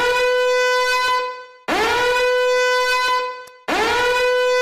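A horn blown in three long, steady blasts, each note scooping up in pitch as it starts.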